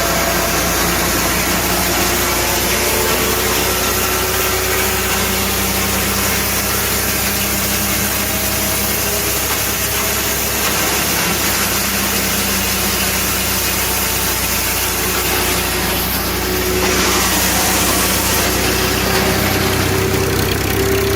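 Tractor engine running steadily, driving a PTO-powered wood chipper, with a dense steady hiss over the engine hum. The sound shifts slightly about 17 seconds in and gets a little louder soon after.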